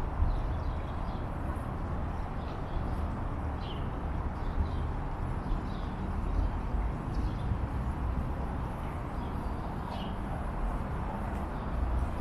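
Steady outdoor background noise with a low, fluctuating rumble, and faint short bird chirps scattered every second or two.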